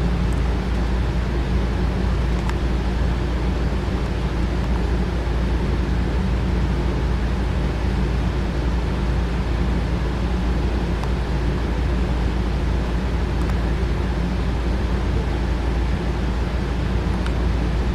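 A steady low hum and rumble that holds at one level, with no passing surges.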